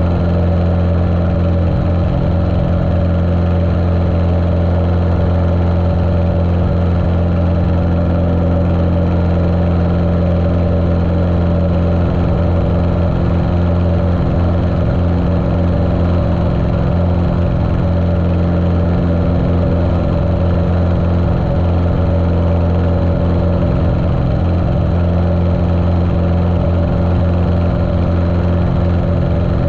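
Continental O-200 air-cooled four-cylinder engine of a Cessna 150L running at a steady speed, sounding muffled through a waterproof camera case.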